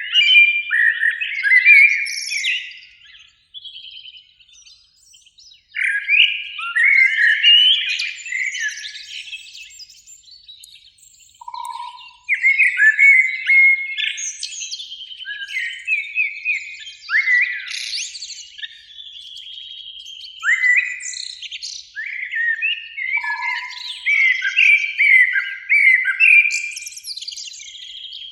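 Common blackbirds singing: warbling, twittering phrases a few seconds long, separated by short pauses.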